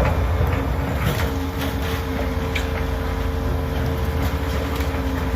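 Demolition of a steel-framed building by an excavator: the machine's engine running with a steady low rumble while the structure's steel bends and gives way, with a held groaning tone from about a second in and scattered sharp cracks and snaps.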